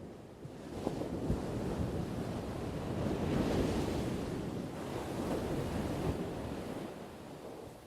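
Ocean surf: a wave breaking and washing up, swelling to a peak about three and a half seconds in, then receding and fading.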